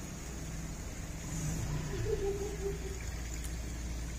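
Car engine running low and steady as a car pulls out along a rain-wet lane, with faint voices in the background.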